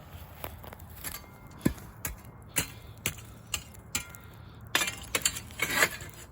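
Irregular sharp clicks and clinks, about ten of them, with a cluster of longer rasping scrapes near the end.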